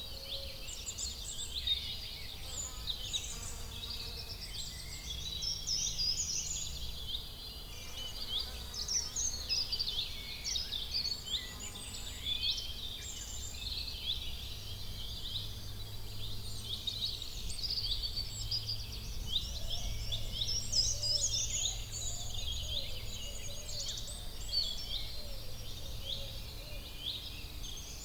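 Many small birds chirping and singing at once, a dense chorus of short quick notes, over a low steady rumble.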